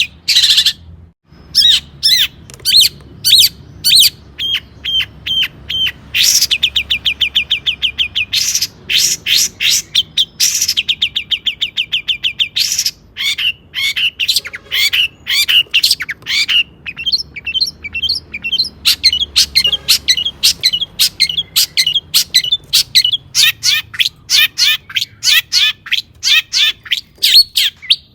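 Long-tailed shrike (cendet) singing hard: a varied run of sharp, quickly repeated notes, with two long, fast, even trills partway through, in a song full of phrases mimicked from other birds.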